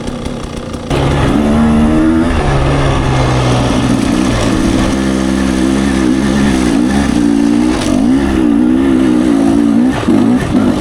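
Dirt bike engine pulling hard up a steep climb. It gets suddenly louder about a second in, its pitch rises, then wavers up and down with the throttle.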